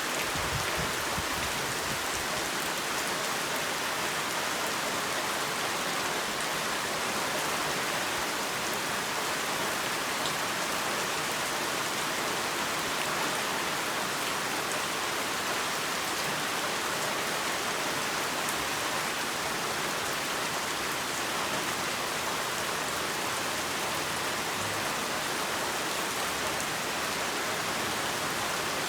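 Heavy rain falling steadily, a dense even hiss of rain on a surface with individual drops ticking through it.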